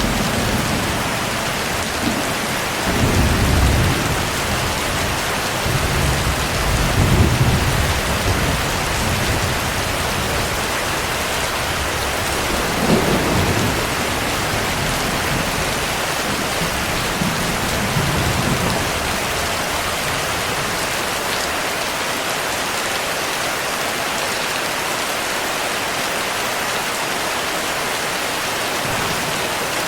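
Steady heavy rain with thunder rumbling low several times in the first two-thirds, then rain alone.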